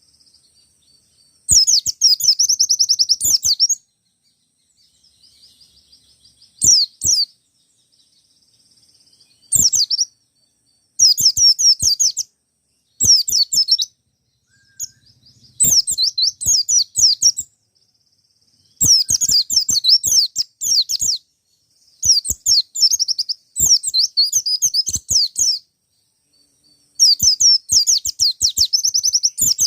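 Forest-type white-eye (pleci ngalas) singing in rapid, high-pitched bursts: about ten quick twittering phrases of one to two seconds each, with short pauses between.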